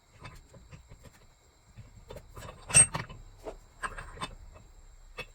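Scattered light clinks and knocks of a ball joint press's steel installer, receiving cup and spacers being handled and fitted around a steering knuckle, with one sharper knock about three seconds in.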